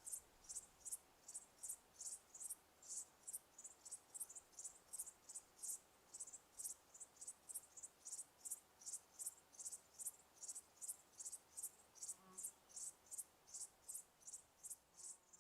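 A cricket chirping faintly and steadily, short high chirps at about three a second.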